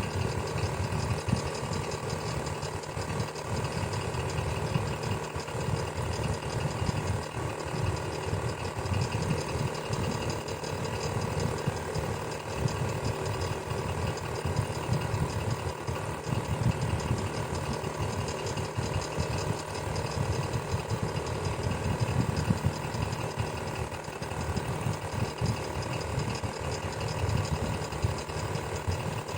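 Electric fan running steadily: an even, low hum that does not change.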